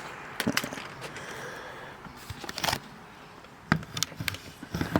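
Scattered clicks and knocks of equipment being handled on a workbench, with a short scrape about two and a half seconds in, as a work stand is set out for a chainsaw.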